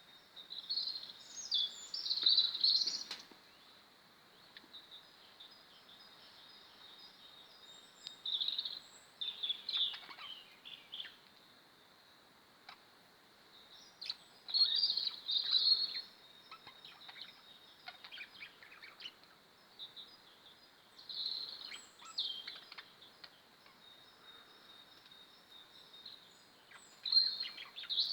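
Budgerigars chirping and chattering in short bursts every few seconds, with faint short clicks in between.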